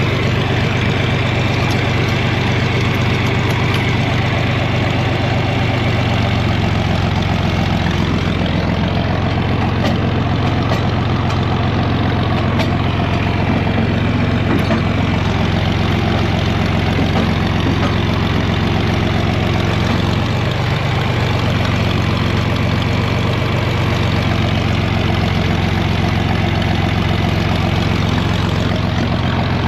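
John Deere 4000 tractor engine idling steadily, with small shifts in engine speed a few times.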